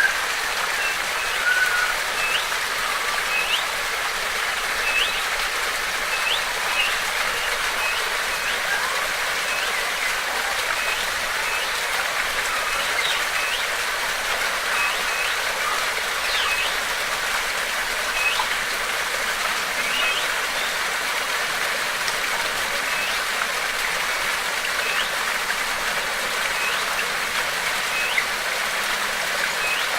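Steady rush of running water, with a bird repeating short rising chirps about once a second.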